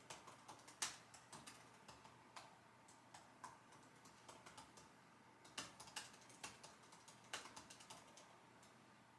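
Typing on a computer keyboard: faint, irregular runs of key clicks, with one louder keystroke about a second in. The typing stops near the end.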